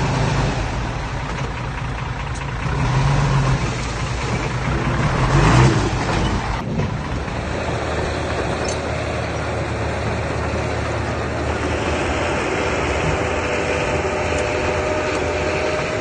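Diesel engine of earthmoving machinery running steadily, with a brief louder rushing surge about five and a half seconds in.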